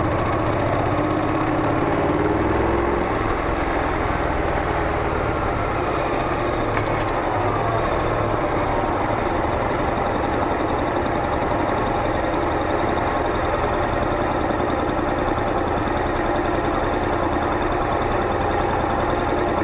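Honda NC700X's parallel-twin engine idling through a Beams slip-on muffler, steady throughout, with a brief slight rise in pitch about one to three seconds in.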